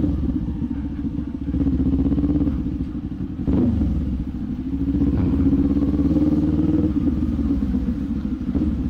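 Kawasaki Z400's parallel-twin engine and exhaust while riding. The revs rise and fall with the throttle, with a brief drop and climb about three and a half seconds in.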